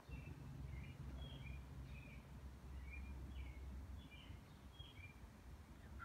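A bird chirping: a string of short, high chirps, many in falling pairs, repeated every half second to a second, faint over a low background rumble.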